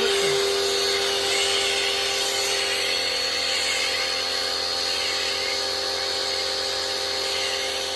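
Rock&Rocker HWY12 pressure washer's electric motor running with a steady whine over the hiss of its spray, with the soap attachment fitted. It runs at lower pressure with this attachment.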